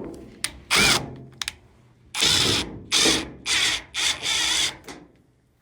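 Cordless drill driving screws back into a dryer panel, running in about five short bursts with a brief rising whine as it spins up.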